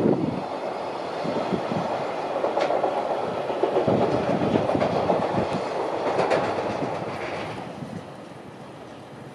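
Container freight train wagons running over a girder bridge, their wheels clattering in repeated beats over the rail joints. The clatter fades away near the end as the last wagons pass.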